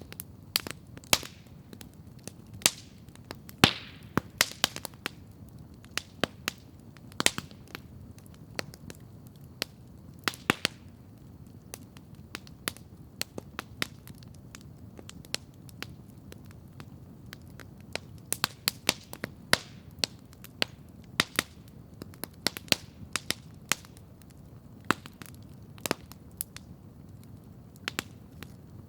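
Campfire crackling, with irregular sharp pops of burning wood, some in quick clusters and a few much louder than the rest, over a steady low background hiss.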